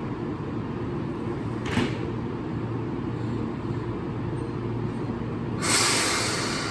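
Keihan 6000-series electric train standing at the platform with a steady low hum. A short knock comes about two seconds in, then a sudden loud hiss of released compressed air near the end that fades away.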